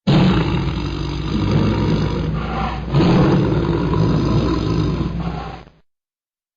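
Tiger growling: two long, rough, low growls, the second starting about three seconds in, then cutting off suddenly near the end.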